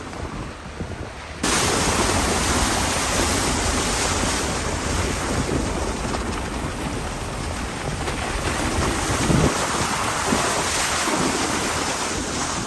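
A loud, steady rushing noise over a low rumble, cutting in abruptly about a second and a half in.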